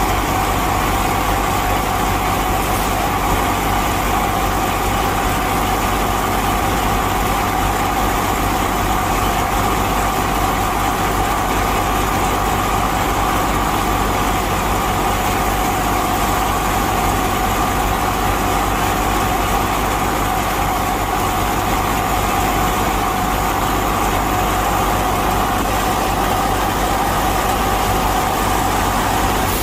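A small motor running steadily with an unchanging hum-whine, level throughout.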